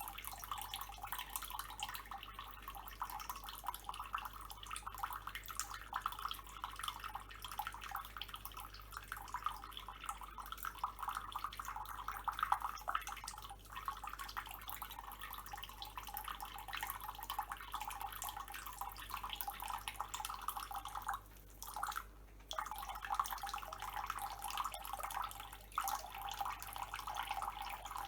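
Water running from a tap, splashing and dripping, with a dense patter of small drops that breaks off briefly twice about two-thirds of the way through.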